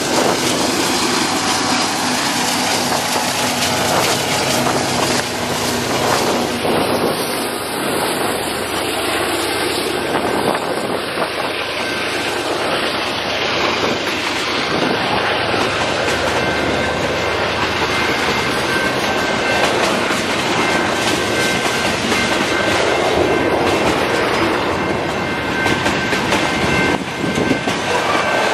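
Freight train of tank cars rolling past: a steady, loud noise of steel wheels running on the rails.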